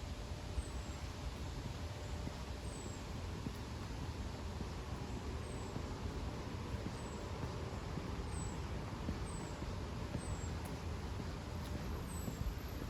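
Short, thin, high-pitched chirps from a small bird, each dropping quickly in pitch, repeated about once a second at uneven gaps over a steady low rumble and hiss of outdoor background noise.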